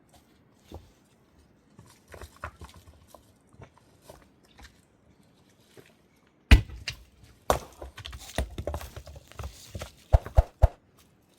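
Irregular knocks and thuds: a few faint ones at first, a loud one about six and a half seconds in, then a busier run of knocks.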